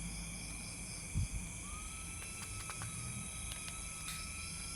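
Steady high-pitched trilling of night insects in several pitches, one of them pulsing at first. A single soft thud comes about a second in, and a thin steady whistle-like tone joins a little before two seconds in.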